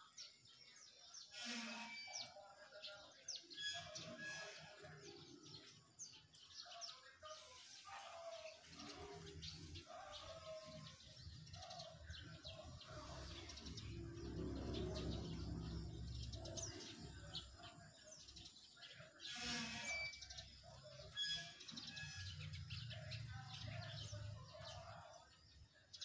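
Small birds chirping, many short high calls overlapping throughout. A low rumble swells about nine seconds in, is loudest in the middle, and returns briefly near the end.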